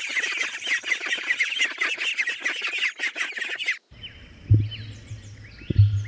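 A crowd of ducklings peeping rapidly and without a break, cutting off abruptly about four seconds in. Low rumbling thumps follow, with a few faint bird chirps.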